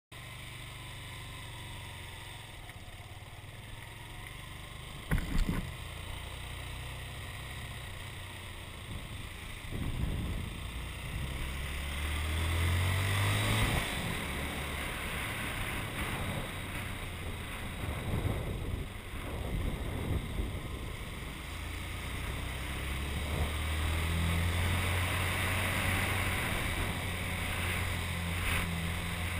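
Engine of a 1994 Honda CG125, an air-cooled single-cylinder four-stroke, running while the bike is ridden. Its note rises and falls with the throttle, and wind noise sits on the microphone. There is a sharp knock about five seconds in.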